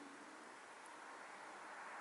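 Faint, steady hiss of a small wood fire burning in a Solo Stove Titan fire pit, with no distinct crackles.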